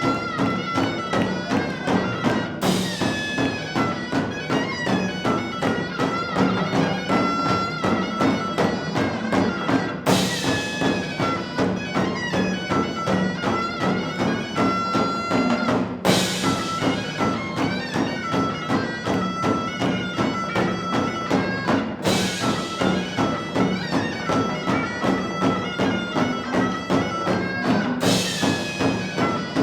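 Korean traditional music: a reedy wind instrument plays a melody over a steady low drone and fast, dense percussion, with a bright crash about every six seconds.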